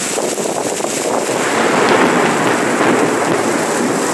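Heavy tropical rain pouring down in a steady hiss, growing louder for a couple of seconds around the middle.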